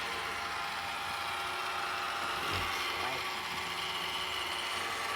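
Roomba robot vacuum running, its motors and brushes making a steady whir with a thin whine, and a soft low knock about halfway through.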